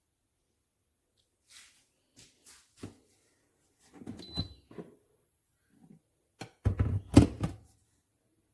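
Scattered knocks, clicks and thunks of objects being handled in a small room. Soft clicks start about a second and a half in, with a louder cluster around four seconds, and the loudest, heaviest thunks come near the end.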